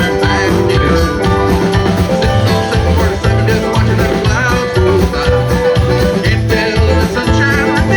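Live band music with a steady beat and a pulsing bass line.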